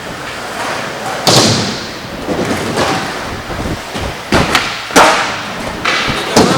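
Skateboard tricks: a skateboard rolling with several sharp board impacts, a crack about a second in and a run of pops and slaps on the ground in the second half.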